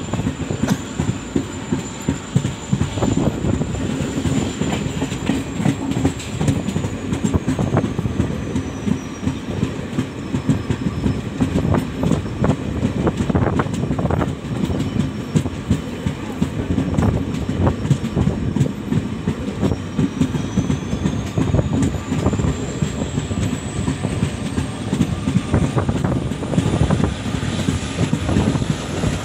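Passenger coach running along the track, heard from on board: the wheels keep up a steady clickety-clack and rattle. A faint high whine dips in pitch and then climbs again.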